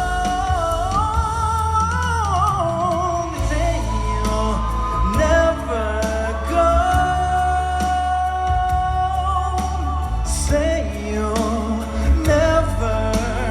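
Live pop ballad: a singer holds long, wordless sliding notes over a band backing with a steady bass.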